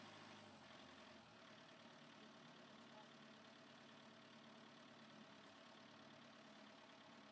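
Near silence with a faint, steady engine hum, like a machine idling well away.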